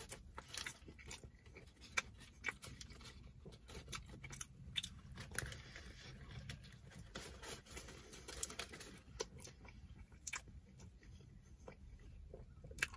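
A man biting into and chewing a sandwich at close range: quiet, scattered wet clicks and smacks of the mouth.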